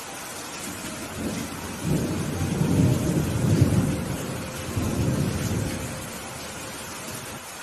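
Steady rain with a roll of thunder. The low rumble builds about a second in, peaks about halfway through, swells once more and fades out near the end.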